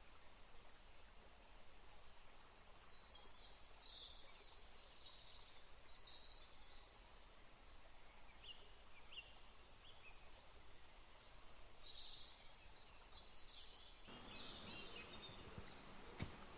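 Faint birds chirping in short, high notes, in two spells with a few lower calls between, over a quiet background hiss.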